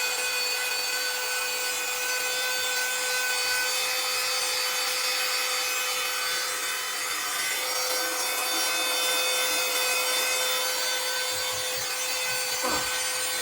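150-watt portable handheld vacuum cleaner running steadily with a high motor whine and rushing suction, its nozzle drawn along the slats of a vent.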